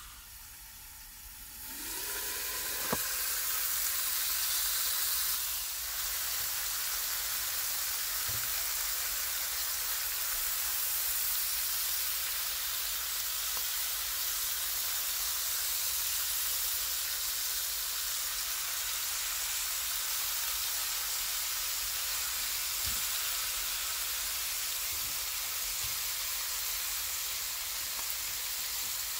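Tandoori-marinated chicken legs sizzling in oil in a nonstick frying pan, a steady hiss that grows louder about two seconds in, with a single light click shortly after.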